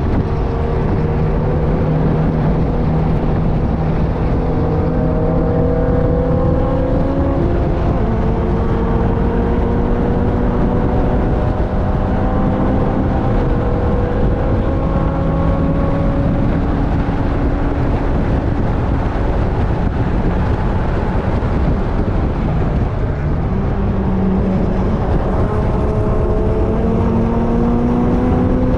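Onboard sound of a vehicle's engine lapping a race track under load, its pitch climbing steadily for several seconds and then dropping, about three times, over constant wind and road rush.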